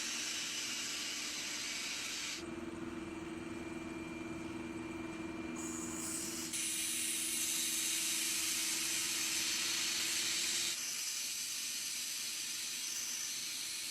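A so-called water-powered engine running with a loud, steady hiss, like steam or gas escaping. A steady hum joins about two seconds in and stops about eleven seconds in, and the hiss changes abruptly several times.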